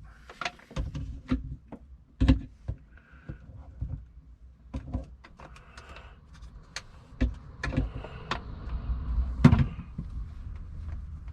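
Irregular clicks, taps and knocks of hard plastic parts of a Thetford C200 cassette toilet's flush assembly being handled and fitted, with two louder knocks, one about two seconds in and one near the end.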